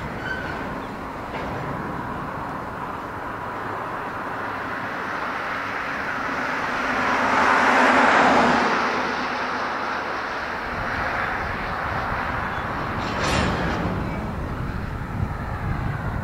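Covered hopper cars of a freight grain train rolling past with a steady rumble of wheels on rail. About halfway through, a car passes close by on the road, its tyre noise rising and falling and loudest at its passing.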